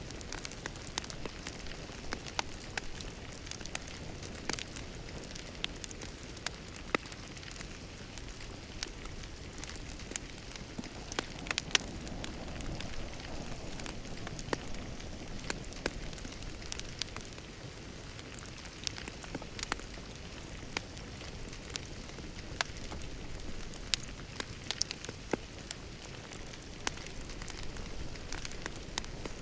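Wood fire burning in a fireplace, crackling with frequent irregular sharp pops over a steady soft hiss.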